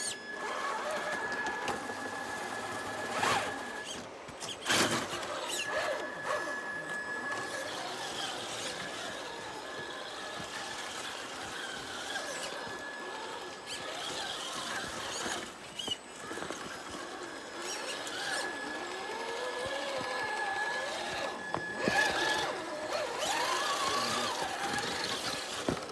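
Electric motors and geartrains of radio-controlled rock crawlers whining. The pitch rises and falls with the throttle, a thin high whine starts and stops several times, and there are a few sharp knocks, the loudest about five seconds in.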